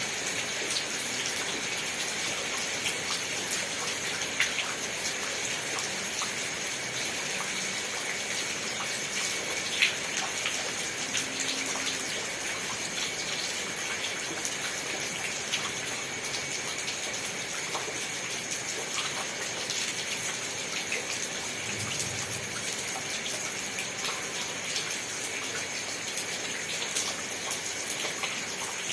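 Steady rain falling, an even hiss dotted with the sharp ticks of single drops, one louder tick about ten seconds in.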